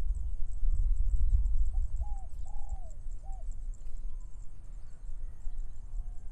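Rice-field morning ambience: wind rumbling on the microphone, the loudest sound; a bird giving four short calls about two to three seconds in; and steady high chirping behind it.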